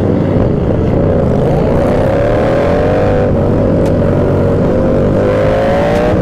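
Motorcycle engine running at road speed, its pitch rising twice as it accelerates, over a steady low rumble.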